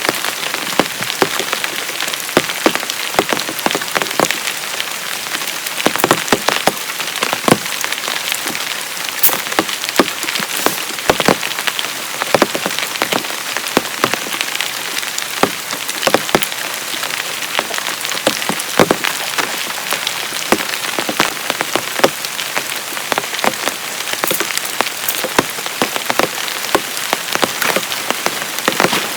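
Heavy rain falling steadily, with many sharp, irregular drop impacts striking close by.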